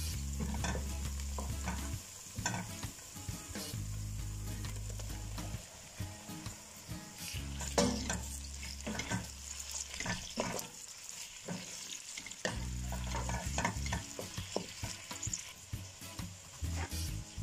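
Food frying and sizzling in a pan while it is stirred, with repeated short scrapes and clicks of the utensil against the pan.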